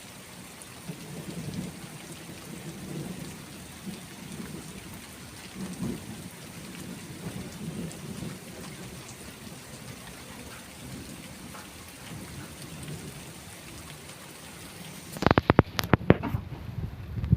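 Steady rain with thunder rolling low in repeated swells. About fifteen seconds in comes a quick cluster of sharp, loud knocks, the loudest thing heard, after which the hiss of the rain thins out.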